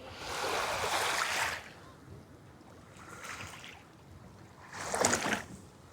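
Sea waves washing onto a sandy beach, three separate surges of hiss: a long one at the start, a weaker one about three seconds in and a sharper one near the end.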